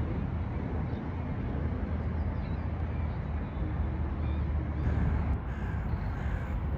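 Outdoor background: a steady low rumble with a few faint, short bird calls over it.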